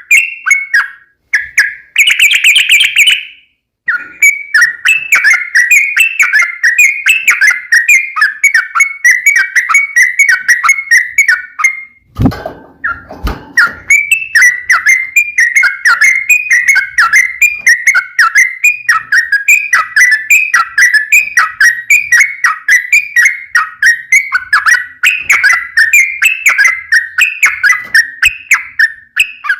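Yellow-vented bulbul (trucukan) singing a long, fast, unbroken run of quick chirping notes at a fairly steady pitch. It breaks off for a moment about twelve seconds in, where a short low rumbling noise is heard, then the song carries on.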